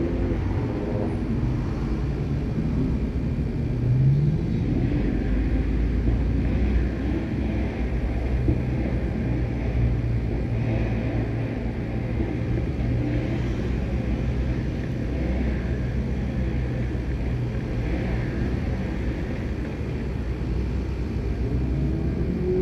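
Car engines and exhausts rumbling as cars drive past. One engine revs up about four seconds in, and a steady low engine hum runs through the second half.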